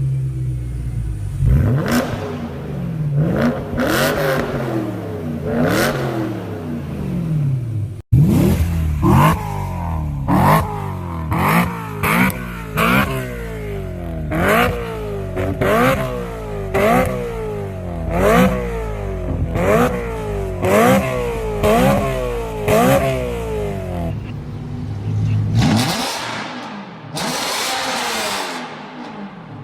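BMW E9X M3's S65 V8 on an aftermarket exhaust, revved from idle in repeated short blips, each rising and falling in pitch. There is a sudden break about eight seconds in, then a quick run of about a dozen blips, roughly one a second, and a noisier rising-and-falling rush near the end.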